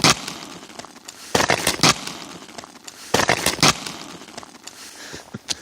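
Boots crunching and stamping on a crust of snow glazed hard by freezing rain: sharp crunches at the start, two pairs about half a second apart, and one more near the end. The ice crust holds and does not break.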